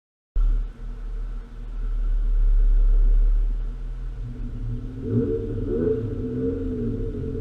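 Honda 3.2-litre J-series V6 VTEC engine (J32A3) in a swapped Civic, starting abruptly with a steady low exhaust rumble. From about five seconds in it is revved up and down repeatedly.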